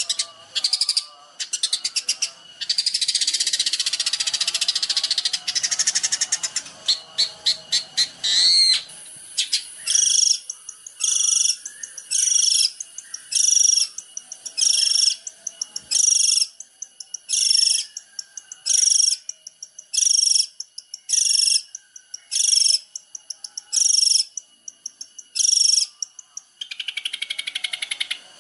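Long-tailed shrike (cendet) singing: a rapid, dense chatter for the first eight seconds, then one short high phrase repeated about every second and a half, ending in a buzzy rasp near the end.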